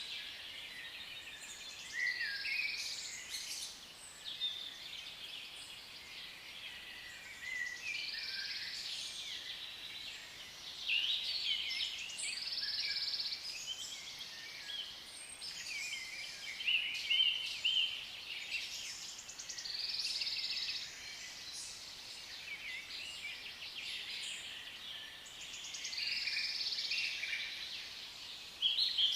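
A flock of African lovebirds chattering and chirping without pause, swelling into louder rounds of shrill calls every few seconds.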